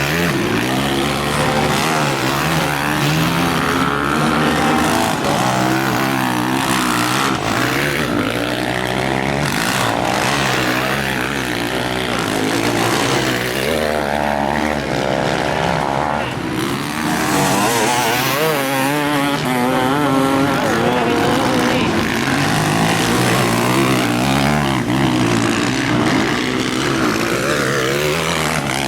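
Several motocross bikes racing, their engines revving up and falling off again as they shift and brake, overlapping one another continuously.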